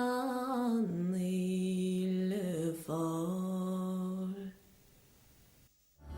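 Unaccompanied solo voice singing a slow song in Irish, holding long notes with slow steps down in pitch. The singing ends about four and a half seconds in, and after a short near-silent gap music starts at the very end.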